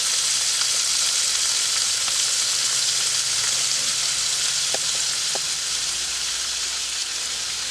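Snakehead fish frying in hot oil: a steady sizzle that eases slightly near the end.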